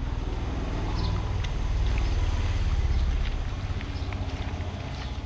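Wind buffeting the microphone: a low rumble that swells in the middle and eases toward the end.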